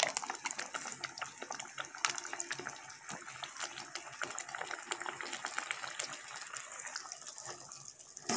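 Onion-tomato masala frying in oil in a steel kadai as yogurt is spooned in: a steady sizzle full of fine, quick crackles.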